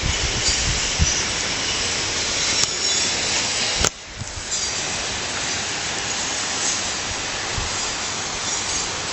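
Steady rushing of stream water, a constant even hiss. A sharp click a little under four seconds in briefly drops the level before the rushing returns.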